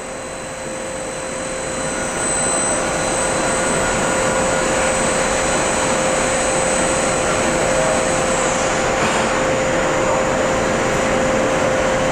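Daewoo Puma 200 CNC lathe running a cut on aluminum bar stock, at the stage where it single-point cuts the threads: a steady machining noise with a steady hum. It grows louder over the first couple of seconds, then holds.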